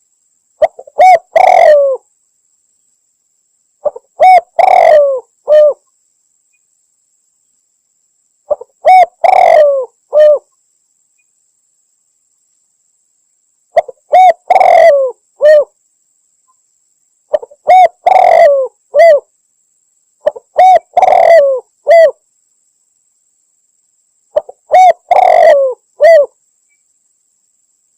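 Spotted dove cooing in repeated phrases of three or four arching notes, about seven phrases with clean silence between them. It is a hunting lure call, billed as a female calling a male.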